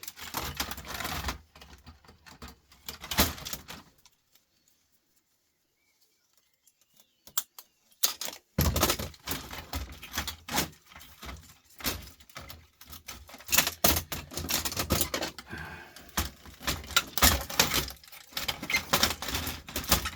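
Irregular clicking and clattering of small metal parts, screws and hand tools being handled while electronics are taken apart. There are a few seconds of near silence about four seconds in, then the clatter resumes more densely.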